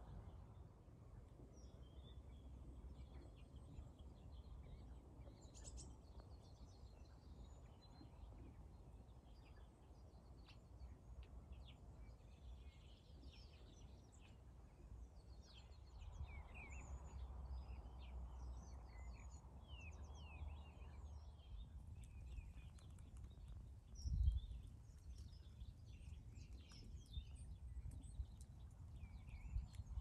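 Faint birdsong: several small birds chirping and twittering in quick short phrases, over a low rumble of wind and handling noise on the microphone, with a single thump about three-quarters of the way through.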